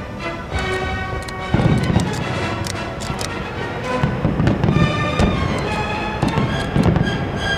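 Music playing, with fireworks bursting over it again and again.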